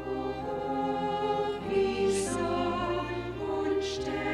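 Choir singing a hymn with instrumental accompaniment, held notes changing about every second.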